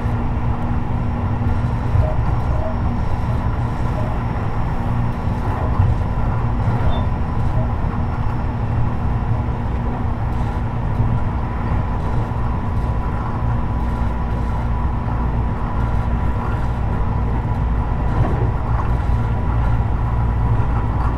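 Tobu 50090 series electric commuter train running between stations, heard inside the car above the underfloor equipment: a steady rolling rumble of wheels on rail with a faint steady tone through it.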